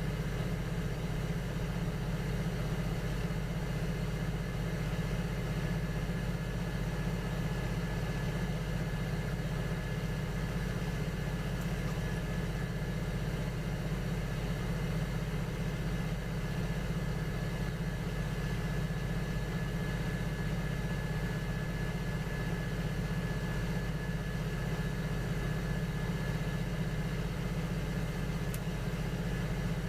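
Electric potter's wheel running at a steady speed: a constant low motor hum with a faint high whine.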